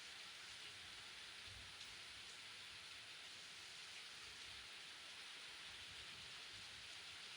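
Rain falling steadily, a faint even hiss with a few soft low thumps.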